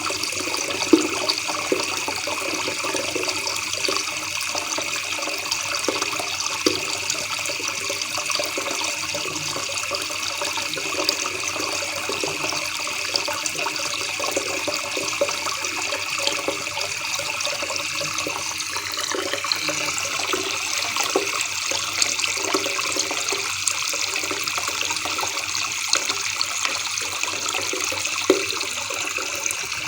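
Shallow river water babbling and trickling steadily, with small splashes now and then.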